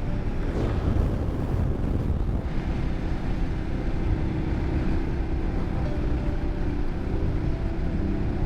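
Motorcycle engine running at a steady pace under wind noise on the helmet microphone.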